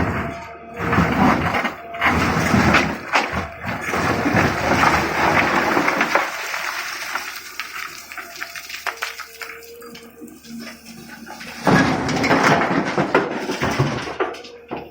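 Stone rattling and crashing as an excavator loads rock into a truck, in two long noisy stretches: one over the first six seconds and another starting near twelve seconds. Between them it goes quieter, leaving a faint steady hum.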